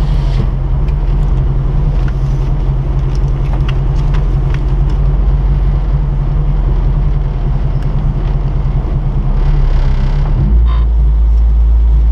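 Honda Civic Type R rally car's engine idling steadily, heard from inside the cabin while the car stands still. About ten and a half seconds in, the low engine note steps up and holds louder.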